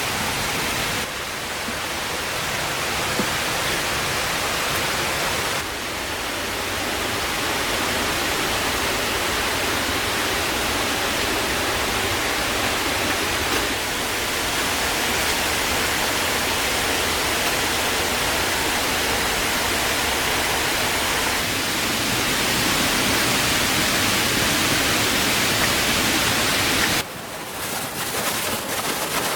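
Steady rushing noise of water, with abrupt small shifts in level at several points. Near the end it drops and turns uneven, with scattered clicks.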